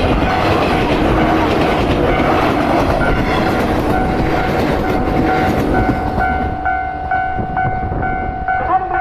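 JR 115-series electric train passing over a level crossing. Its running noise fades after about six seconds, while the crossing's electronic warning bell rings on in an even, repeating pattern.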